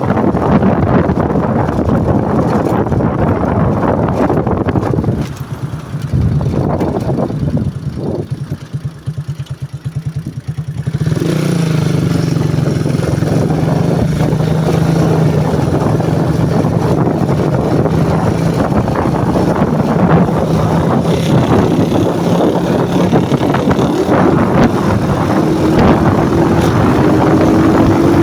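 CG150 single-cylinder motorcycle being ridden, with wind rushing over the microphone. About five seconds in it drops to a pulsing idle. About eleven seconds in it pulls away again and runs at a steady pitch, rising near the end as it accelerates.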